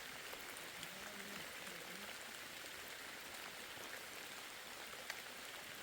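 Steady rain falling, with scattered individual drops ticking against it.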